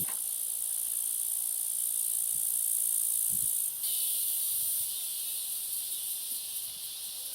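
Steady high-pitched hiss, with a louder, fuller stretch about four seconds in.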